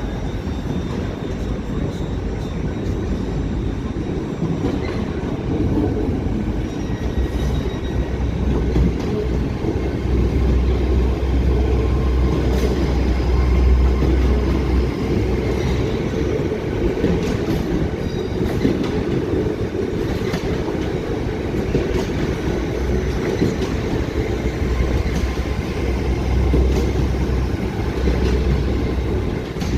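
A passenger train running through a station, with a steady heavy rumble from its wheels and running gear that swells in two long stretches. Faint, thin high-pitched wheel squeals come through now and then.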